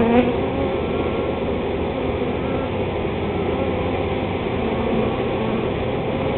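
Honey bee swarm buzzing steadily, a dense hum of many wingbeats.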